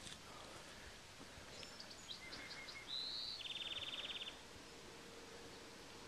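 A small songbird sings one song: a few short high chips, a slurred whistled note, then a rapid dry trill lasting about a second, over a faint steady outdoor hush.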